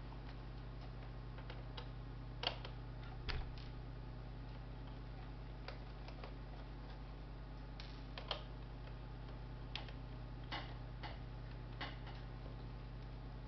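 Scattered small clicks and taps as a laptop's parts are handled during disassembly, irregular and a few seconds apart, over a steady low electrical hum.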